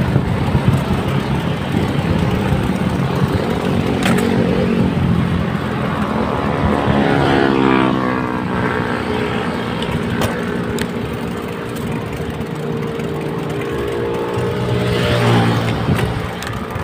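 Road traffic and wind rumbling on the microphone while riding along a road. A motor vehicle passes about seven seconds in, its engine note falling in pitch as it goes by. Another vehicle swells up and passes near the end.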